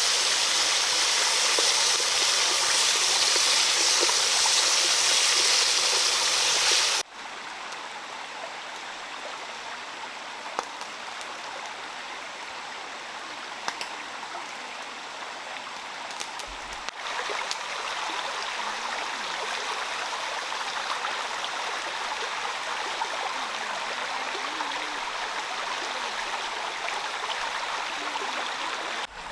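Heavy rain falling as a steady rushing hiss. About seven seconds in it cuts abruptly to a quieter, steady rain with a few faint drip ticks, and it grows a little louder again past the halfway point.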